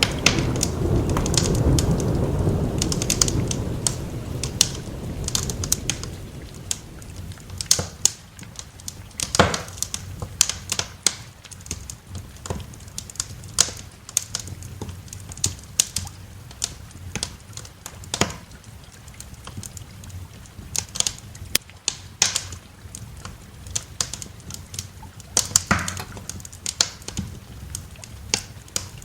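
Wood fire crackling, with sharp irregular pops throughout. A low roll of thunder sounds at the start and fades away over about six seconds.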